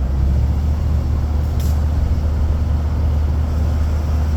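Steady low rumble of a car's engine and tyres heard inside the cabin while driving, with a brief hiss about one and a half seconds in.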